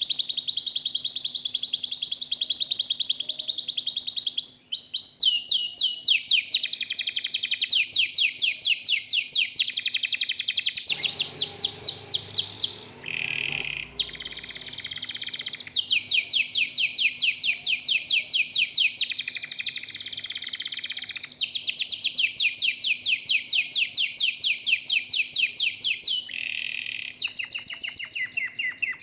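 Domestic canaries singing long, fast trills of rapidly repeated high notes. The phrases switch every few seconds, with brief breaks.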